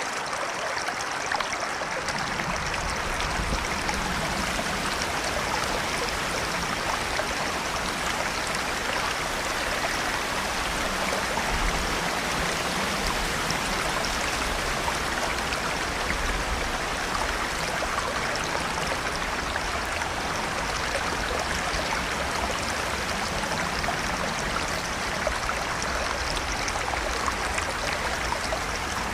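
River water flowing over rocks, a steady rushing and gurgling, with a low rumble that comes in about two seconds in.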